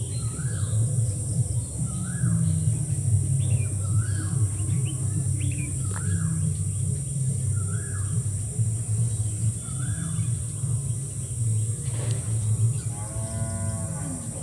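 A bird calling repeatedly, a short rising call about every two seconds, over a steady low rumble and a high hiss. Near the end a different pitched sound falls in pitch.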